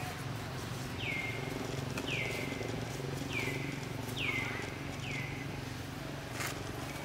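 A bird calling: five short whistles, each sliding quickly downward in pitch, about a second apart, over a steady low hum.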